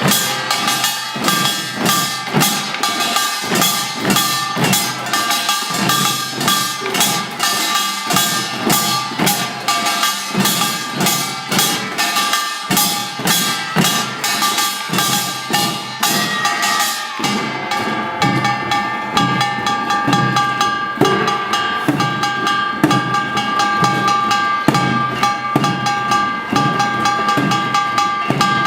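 Children's samulnori ensemble playing Korean traditional percussion: rapid, even drum strokes of janggu and buk under the steady ringing of kkwaenggwari and jing gongs. The rhythm pattern changes about two-thirds of the way through.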